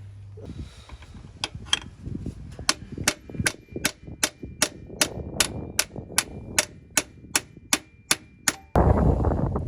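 Repeated sharp metal-on-metal hammer strikes, about twenty at roughly three a second, driving out the pin that holds the gear shift linkage to a Honda Civic gearbox, with a faint metallic ring between blows. Near the end the strikes stop and a louder steady rushing noise takes over.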